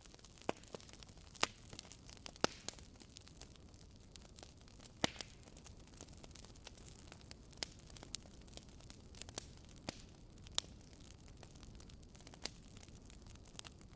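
Wood fire crackling in a fireplace: irregular sharp pops, a few louder than the rest, over a soft steady hiss.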